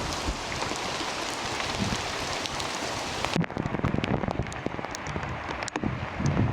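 Steady rain falling in a redwood forest. About halfway through, the even hiss drops away suddenly and single drops tick close by.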